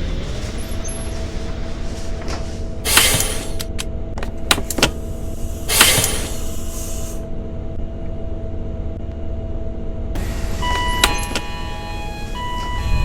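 Scania K230UB bus's diesel engine idling steadily while standing. Two loud air hisses come about three and six seconds in, with sharp clicks between them, and beeping tones near the end, typical of the doors' air release and closing warning.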